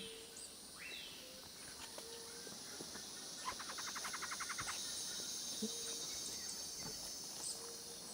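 Forest ambience: a steady high insect drone with scattered bird chirps and whistles. About three and a half seconds in comes a rapid rattling run of strokes lasting about a second.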